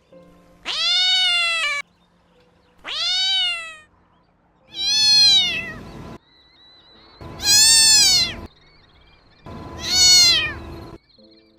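A kitten meowing five times, about every two seconds. Each meow is about a second long and rises then falls in pitch.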